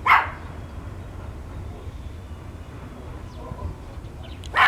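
A dog barks once at the start and once more near the end, over a steady low rumble.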